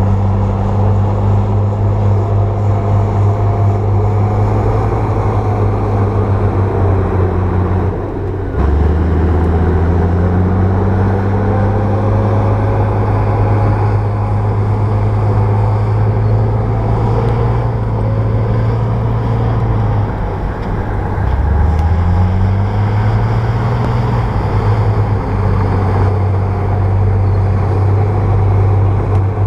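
Bulldozer's diesel engine running hard and steady; its pitch drops sharply about eight seconds in and climbs back, and dips and rises again about twenty-one seconds in as the load or throttle changes.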